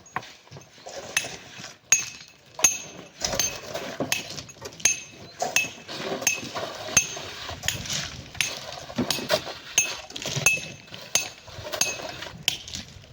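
Metal hand tools striking rock and packed sand in a steady series of sharp clinks, roughly one to two a second, each blow leaving a short metallic ring.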